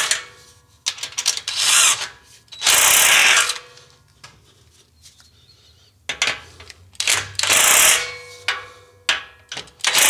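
Hand ratchet wrench clicking in quick runs of strokes, tightening the nuts on the exhaust pipe clamps, with a pause of about two seconds in the middle.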